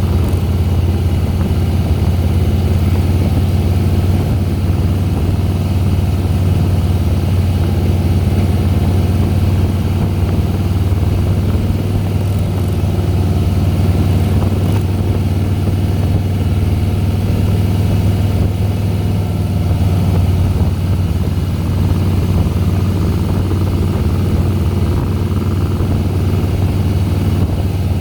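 Harley-Davidson Softail Deluxe's air-cooled V-twin engine running steadily as the motorcycle climbs the road, a continuous low engine note with no break in its level.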